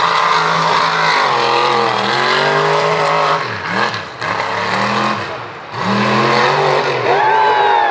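Mega mud truck's engine running hard at high revs. The revs drop away and climb back twice.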